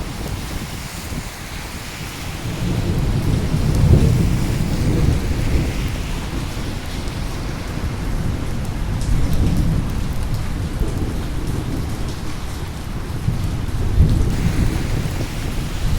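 Steady rain with rolling thunder: low rumbles swell and fade over several seconds, the loudest a few seconds in, with further rolls near the middle and toward the end.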